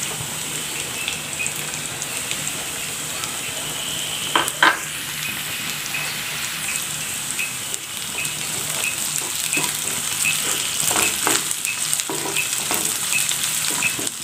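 Chopped onion, garlic and ginger sizzling in hot oil in a nonstick kadai, sautéing until the onion softens. A wooden spatula stirring scrapes and knocks against the pan, the clatter heaviest about four seconds in and again around eleven to twelve seconds.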